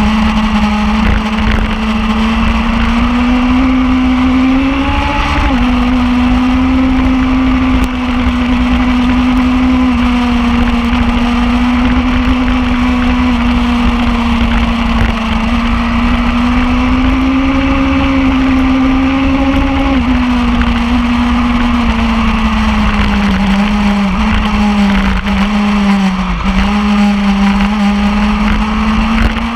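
Superbike engine running hard at fairly steady high revs. The pitch climbs slightly and then drops abruptly at gear changes, about five seconds in and again about two-thirds of the way through. A heavy wind rumble runs underneath.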